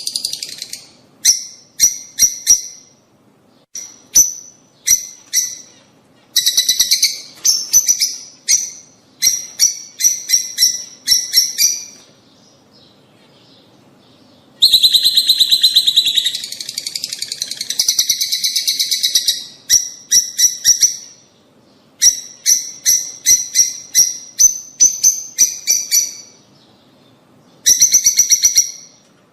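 Lovebirds chirping and chattering: loud, sharp, high-pitched chirps in quick bouts with short pauses between them, and a longer unbroken run of chatter about halfway through.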